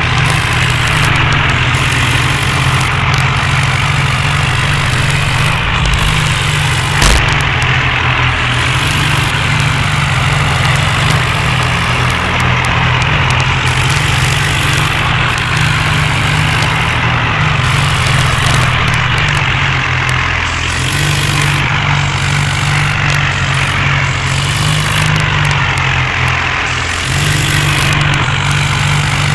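John Deere tractor's diesel engine running steadily, its pitch stepping down slightly about two-thirds of the way through, with a single sharp click about seven seconds in.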